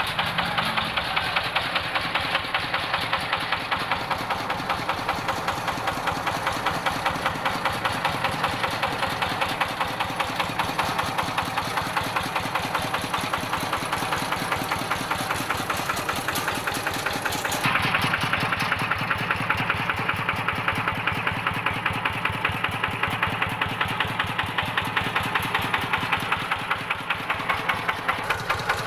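Rice-field tractor's diesel engine idling while it warms up, with an even, fast knocking beat. About two-thirds of the way through it turns brighter and a little louder.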